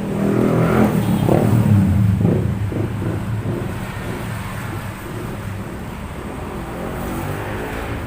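A motor vehicle engine running, revving up over the first couple of seconds and then settling back to a steadier run.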